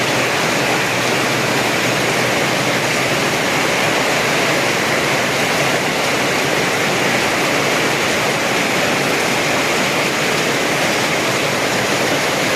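Heavy rain with rushing water, a loud, steady, even noise that does not change.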